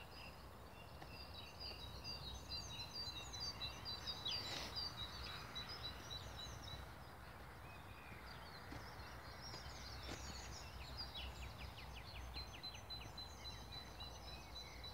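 Several small birds singing in trees and scrub: overlapping chirps and a string of repeated high notes, with a quick trill near the end. A faint low rumble sits underneath.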